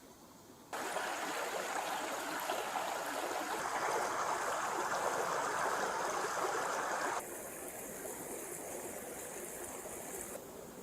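Flowing stream water: a steady rushing that comes in abruptly about a second in, then drops suddenly to a softer flow about seven seconds in.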